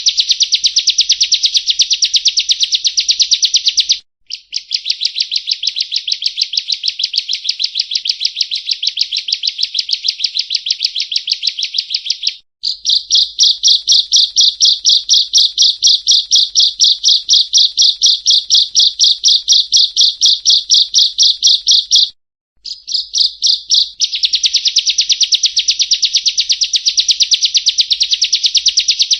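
Bar-winged prinia (ciblek kristal) singing in long, fast runs of the same sharp high note repeated about five times a second. The song has short breaks about every eight to ten seconds, and the note type changes after a break.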